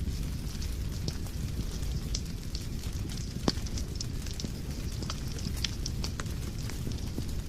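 Fire burning in a fireplace, crackling: a steady low rumble under many irregular sharp pops and snaps, with one louder pop about halfway through.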